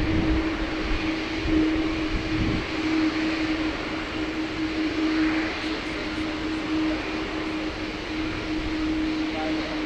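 Jet engines of a McDonnell Douglas MD-11F freighter taxiing, a steady hum with one held tone.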